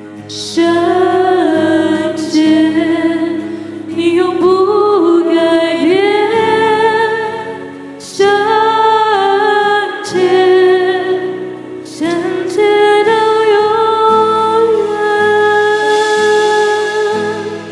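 Christian worship music: a voice sings long held and sliding notes in phrases of about two seconds, over a sustained accompaniment.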